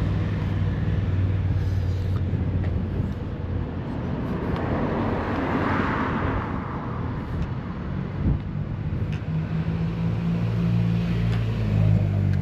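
Road traffic: a steady low engine hum with a vehicle passing by, swelling and fading about halfway through.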